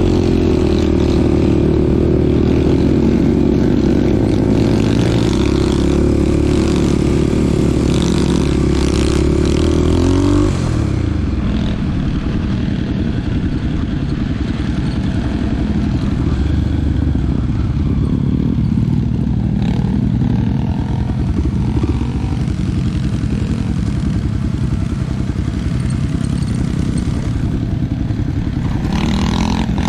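Small dirt bike engine running while riding. The engine note holds steady, then drops abruptly about ten seconds in and carries on at lower, uneven revs.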